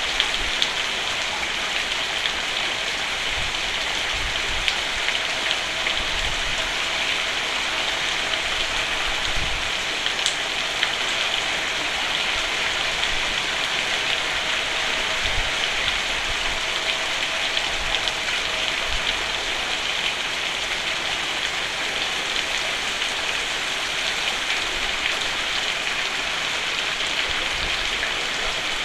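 Steady rain falling on a roof, a continuous even patter of drops with faint individual taps and occasional soft low rumbles.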